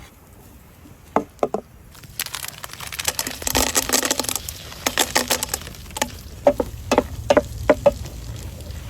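Cooking utensils knocking and scraping against a pan: a few sharp knocks, a few seconds of scraping rustle, then a quick run of about a dozen sharp, slightly ringing knocks.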